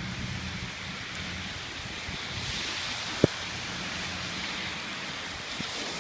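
Steady hiss of heavy rain and runoff water on a flooded parking lot whose storm-drain catch basin is overwhelmed. One sharp knock about three seconds in.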